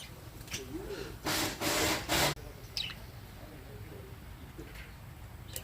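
Pet budgies chirping and softly warbling, with short high chirps, broken about a second and a half in by a loud rustling burst lasting about a second.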